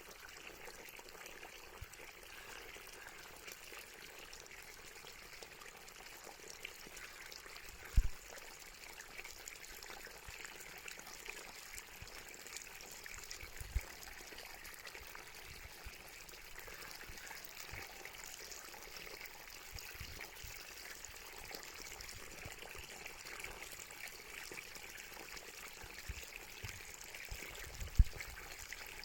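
Water flowing and trickling steadily. Two dull low thumps stand out, about a quarter of the way in and near the end, with a smaller one in between.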